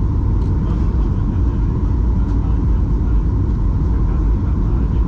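Steady cabin noise inside a Boeing 737-800 airliner: a loud, even rumble of its CFM56 jet engines and the airflow past the fuselage, with a faint steady hum higher up.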